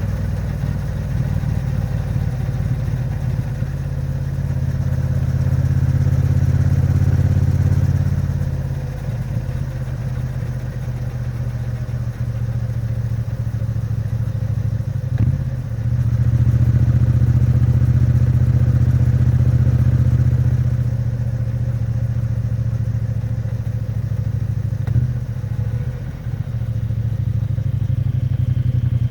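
Triumph Bonneville T100's 900 cc parallel-twin engine and exhaust running at modest revs while the bike is still being run in, the note swelling and easing several times with the throttle. There are brief dips with a knock, about halfway and again near the end.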